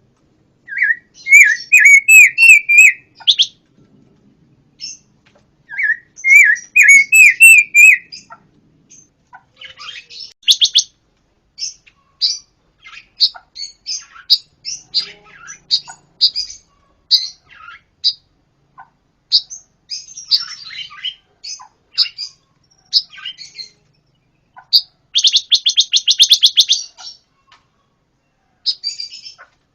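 Songbird known in Indonesian bird-keeping as 'pancawarna' singing: two fast warbled phrases of quick rising notes in the first eight seconds, then a string of short, sharp high chips and brief trills, with a dense rattling trill near the end.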